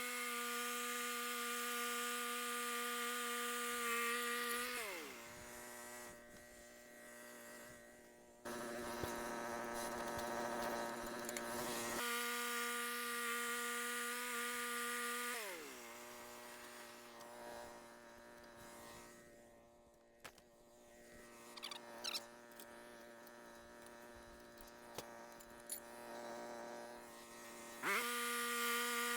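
A small electric power tool's motor run in short bursts: each time it spins up quickly, holds a steady whine for three to four seconds, then winds down. It runs three times, about 12 seconds in and again near the end, with a rougher, noisier stretch between the first two runs.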